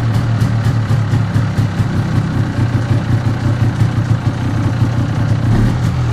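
MZ ETZ 250's single-cylinder two-stroke engine running steadily at a low, even speed, likely idling.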